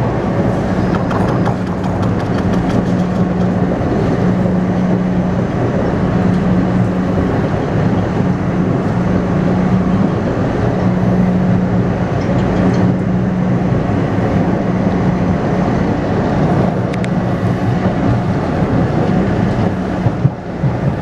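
Taipei Metro C301 train with a refurbished propulsion system running on the line, heard from inside the car: steady wheel-and-rail rumble with a humming tone from the traction inverter that fades and returns every second or so. The uploader calls it an abnormal inverter noise.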